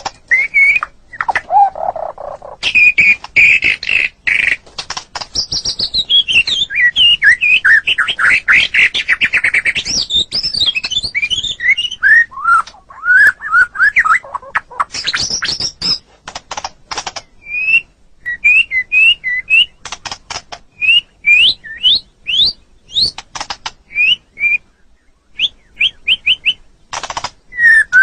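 White-rumped shama (murai batu) singing a loud, varied song. In the first half it runs fast trills and warbled whistled phrases. Later it switches to a string of short, sharp up-slurred whistles, about one or two a second.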